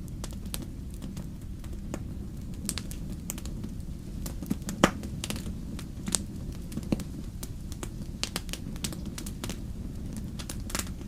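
Wood fire crackling in a fireplace: a steady low rumble of flames with scattered sharp pops, the loudest about five seconds in.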